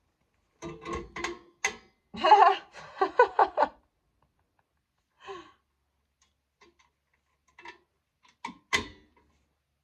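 Metal clicks and clatter of drum-brake springs and hardware being worked into place by hand: a busy run of clinks and rattles in the first few seconds, then a few isolated clicks, the sharpest near the end.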